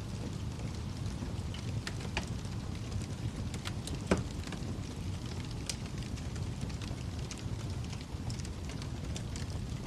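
Wood fire crackling in a fireplace: a steady low rumble of flames with scattered sharp pops and snaps, the loudest about four seconds in.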